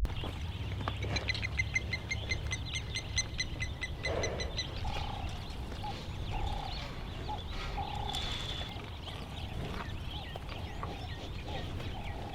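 Birds calling: a rapid, high trill of about eight notes a second near the start, then a run of short, lower calls repeated every second or so, over a steady low rumble of wind on the microphone.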